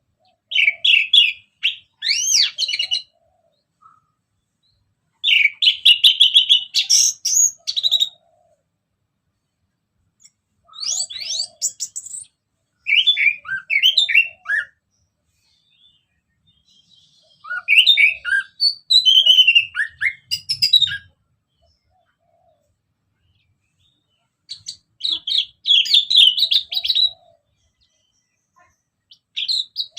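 Orange-headed thrush (anis merah) singing: a string of rapid, varied song phrases of quick sliding whistles and trills, each lasting one to three seconds, with short silent pauses between phrases.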